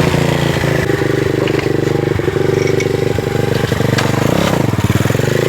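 Dirt bike engine running at steady high revs, dipping briefly in pitch about four seconds in and picking back up.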